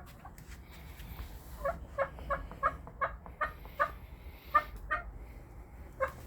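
Pet hen clucking: a run of short, pitched clucks, about three a second, from about one and a half seconds in to about four seconds in, then a few more spaced out.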